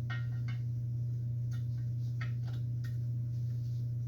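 Several light, irregular clicks and taps of chop saw turntable parts being worked by hand to line up their notches, over a steady low hum.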